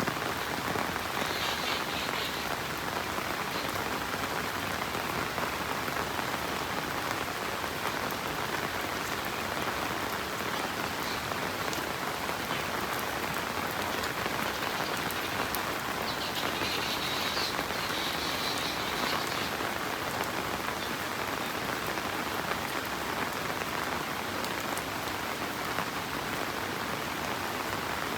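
Steady monsoon rain falling on a road and the surrounding trees, an even hiss of rain with no break, with two brief high-pitched chirrings, one about two seconds in and one past the middle.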